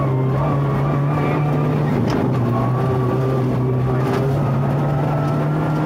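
Rally car engine running hard under load, heard from inside the cabin over a low rumble from the road. Two short sharp clicks come about two and four seconds in, where the engine note shifts slightly.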